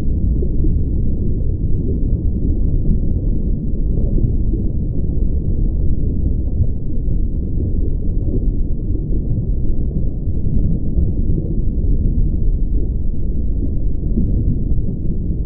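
A loud, steady low rumble with no clear events in it.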